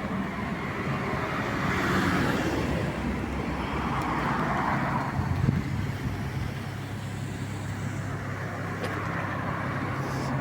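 Road traffic at a junction: cars passing one after another, with a steady low engine hum starting about halfway through.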